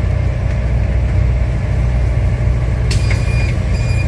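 City bus diesel engine idling with a steady low rumble at a stop, heard from inside. About three seconds in, a repeated high electronic beeping starts.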